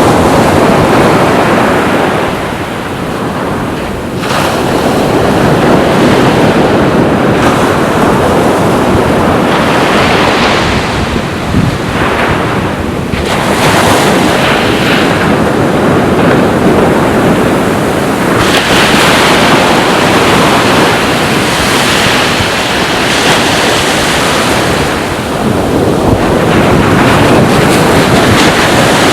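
Sea waves breaking and washing up on a beach, rising and falling in loudness every few seconds, with wind buffeting the microphone.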